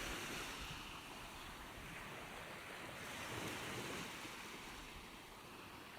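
Faint ocean surf: waves washing ashore as an even hiss that swells slightly a little past halfway and eases off near the end.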